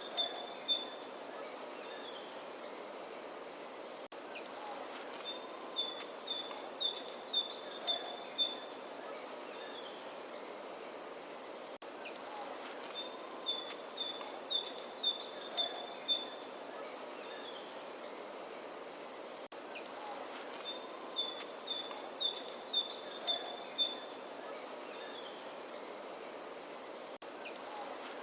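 Songbird singing over a steady outdoor hiss: each phrase opens with a couple of high falling notes, then runs into a quick series of notes alternating between two pitches. The identical phrase comes back about every eight seconds, like a looped recording.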